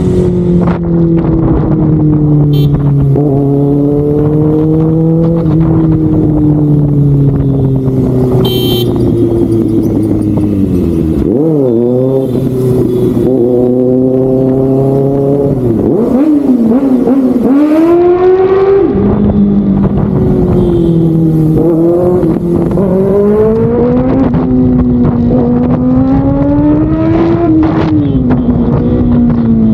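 Kawasaki ZX-6R inline-four engine under way, revs climbing and falling repeatedly through the gears. Twice in the middle the revs dip and then climb sharply.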